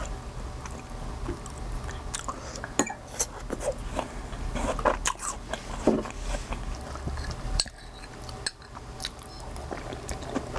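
Cutlery clinking and scraping against a dish while eating, with scattered small clicks over a steady low hum.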